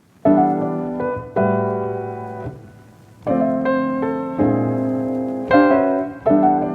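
Background music: piano playing slow chords, each struck and left to ring and fade, with a new chord every second or two.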